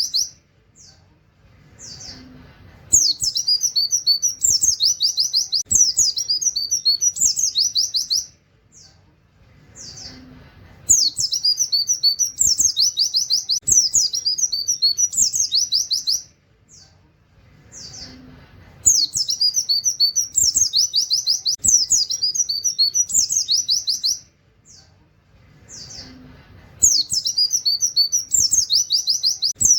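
Oriental white-eye singing a fast, high twittering 'wit wit' song with canary-like trills, in bursts of about five seconds that come round every eight seconds, with single short chirps in the pauses.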